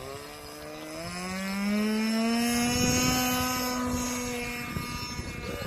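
Small engine of a radio-control model aircraft rising in pitch as it opens up over the first two seconds, then running steadily at high revs, loudest a couple of seconds in and easing slightly near the end.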